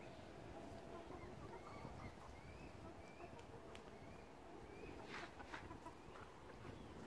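Faint short bird chirps about once a second, with a few light clicks and taps and a low steady rumble underneath.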